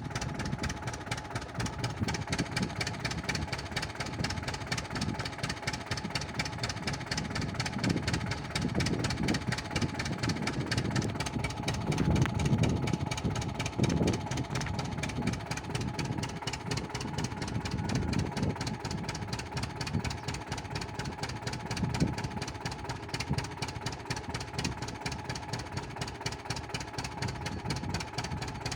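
Landini R3000 tractor engine running with a steady, even knocking beat. It swells louder a few times, around a third of the way in and again later.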